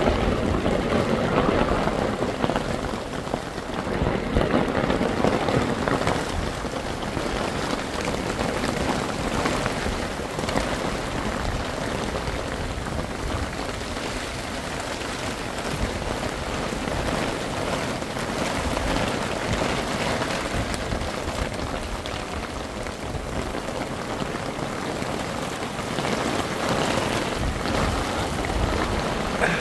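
Heavy rain falling steadily, a dense downpour on the ground, trees and a tarp overhead, a little heavier in the first few seconds.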